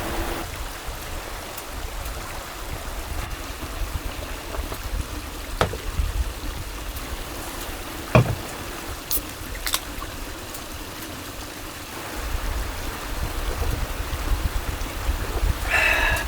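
Mountain stream flowing with a steady rush of water, broken by a few light clicks and one sharp knock a little past halfway.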